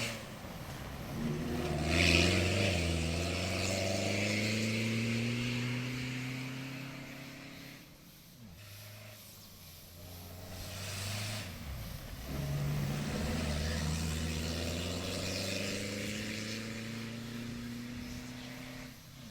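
Two rally cross-country competition vehicles accelerating past one after the other, the first loudest about two seconds in and the second arriving about eleven seconds in. Each engine's pitch climbs steadily as it pulls away and fades.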